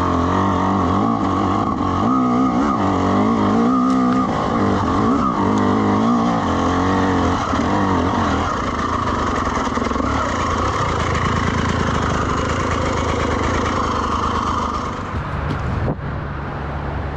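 Dirt bike engine revving up and down again and again for the first half, then running more steadily, as the rider tries again to get the bike up a slippery, root-covered trail. About fifteen seconds in it drops back, with a knock.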